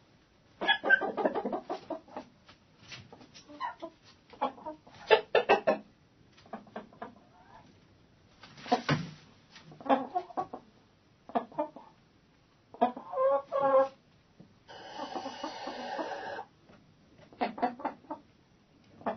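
Hens in a chicken coop clucking in irregular short bursts, with one longer held call lasting about two seconds about three-quarters of the way through.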